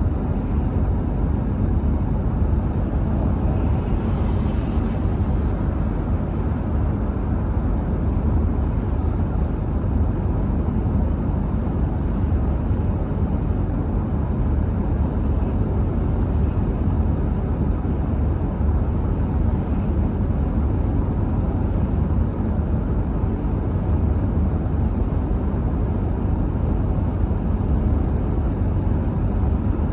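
Steady low rumble of a car driving along the road: tyre and engine noise at an even speed.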